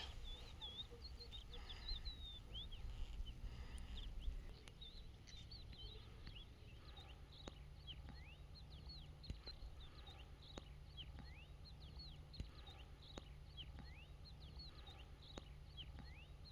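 A quiet outdoor chorus of many small animal calls: short, quick high chirps overlapping throughout, with a dozen or so sharp clicks scattered among them.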